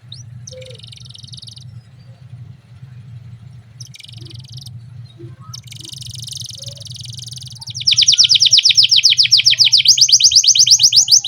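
Canary singing: a few short high trilled phrases, then a long, loud rolling trill of rapid, evenly repeated rising notes. A low steady hum runs underneath.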